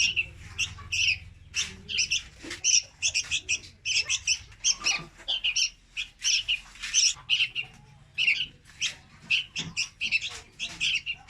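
Young red-whiskered bulbuls calling: a continuous stream of short, sharp chirps, several a second, with no real pause.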